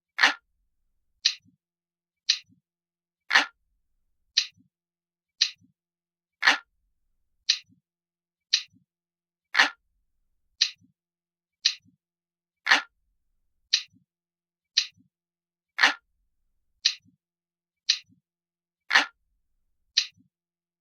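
Clock ticking steadily at about one tick a second, every third tick louder and deeper than the two between.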